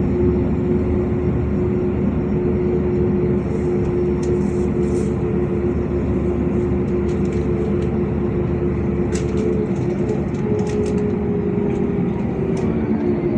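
Inside a LiAZ 5292.65 city bus on the move: steady engine and drivetrain noise with a held whine that shifts slightly in pitch about ten seconds in, and faint light rattles in the cabin.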